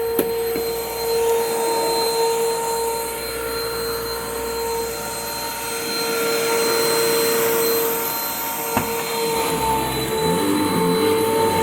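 2009 Hoover Mach Cyclonic upright vacuum running with a steady motor whine, its drive belt worn enough that the owner says it definitely needs a new one. Two sharp clicks, one just after the start and one about nine seconds in, and an uneven rattle near the end.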